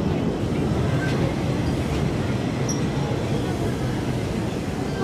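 Passenger train running across a steel truss railway bridge: a steady rumble of wheels on the rails, heard from a carriage window.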